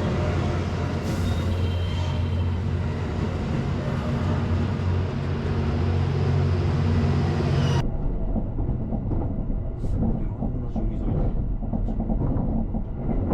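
A train's steady low engine hum, cut off abruptly about eight seconds in by rail running noise with scattered clicks and knocks.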